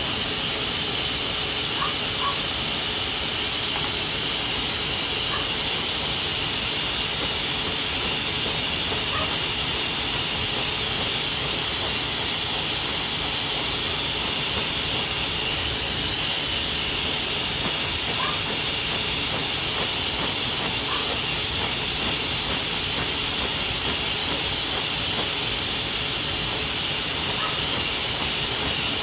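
Pet grooming blow dryer blowing air steadily, a constant hiss with a faint motor whine, used to blow detangler through a matted coat.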